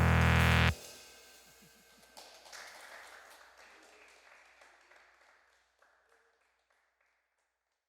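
A band's final held chord, with synthesizer, guitar and drums, cut off abruptly less than a second in, followed by only faint, fading noise and then silence.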